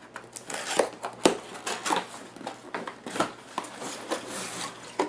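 A cardboard model kit box being opened by hand: a quick run of sharp snaps and clicks mixed with short scrapes and rustles of cardboard and packaging.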